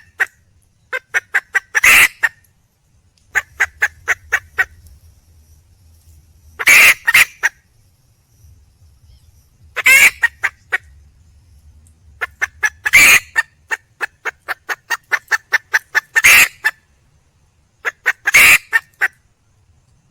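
A junglefowl hen calling to attract a mate: runs of quick clucks, about six a second, broken by a louder, longer cackling call roughly every three seconds, six of them in all.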